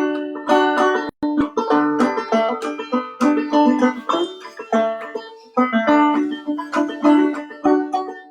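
Clawhammer banjo playing a fast picked tune, with one low drone note coming back again and again among the melody notes, and a very short break about a second in.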